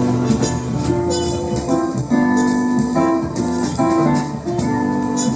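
A small jazz band plays live, with held keyboard chords over bass and drums, and regular cymbal strokes.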